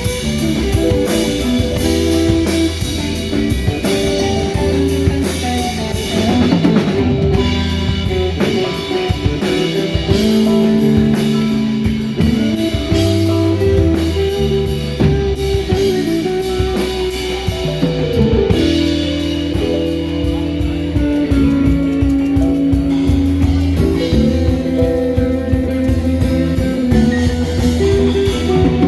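Live rock band playing an instrumental jam: guitar lines over held bass notes and a drum kit keeping a steady beat, with no singing.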